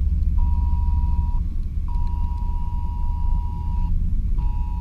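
A smartphone sounding its Wireless Emergency Alert tone, a steady two-pitch beep in long on-off pulses: about one second on, then two seconds, then another starting near the end. Underneath is the steady low running of the truck's 350 V8.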